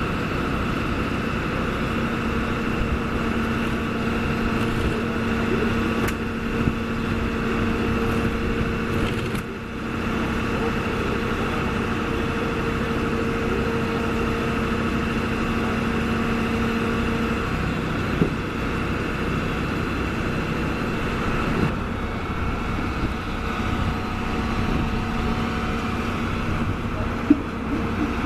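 Fire-truck engine running steadily at idle, a constant hum with a held tone that drops away about two-thirds of the way through.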